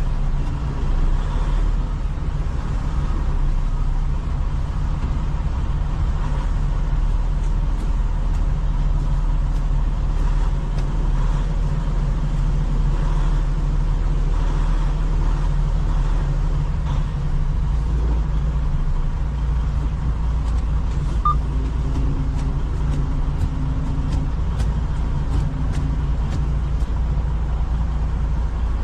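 Semi truck's diesel engine running steadily at low revs, a continuous low hum. Its pitch shifts slightly about two-thirds of the way through.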